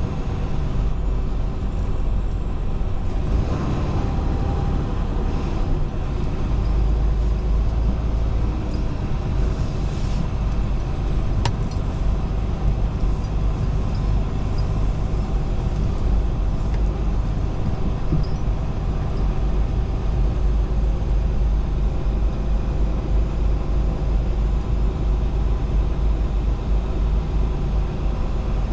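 Semi truck's diesel engine running steadily, heard from inside the cab, with a low rumble and a few faint clicks.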